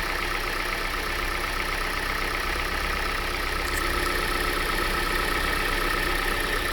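Hyundai i40 engine idling steadily with a fast, even ticking, which the owner suspects may be valve tapping.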